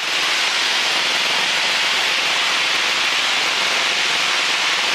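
Steady, even hiss of a light airplane's cabin and engine noise as carried through the headset intercom audio during flight.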